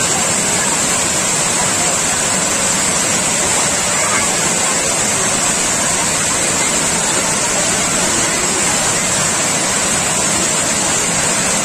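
Water rushing steadily over an overflowing dam, a loud continuous roar of falling water that never lets up.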